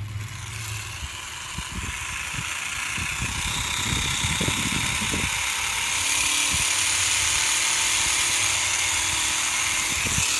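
Tiny electric motor and propeller of an Air Hogs E-Charger micro plane running, a steady whirring hiss that gets louder about six seconds in and stops just after. Low rumbling knocks come in the first half.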